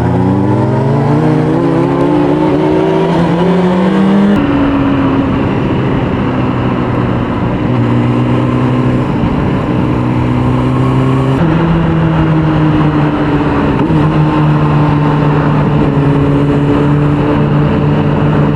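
Inline-four 600 cc sport bike engine under way, rising in pitch as it pulls through a gear, then changing pitch abruptly with gear changes about four seconds in and again near the middle, holding steady revs in between.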